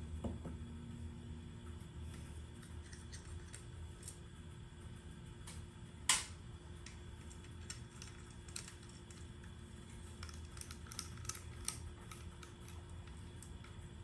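Scattered light clicks and ticks over a steady low hum, with one sharper click about six seconds in.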